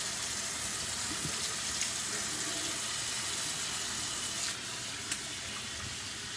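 A tap running steadily into a sink, a steady hiss of water. The flow softens slightly about four and a half seconds in, and there is a short click just after.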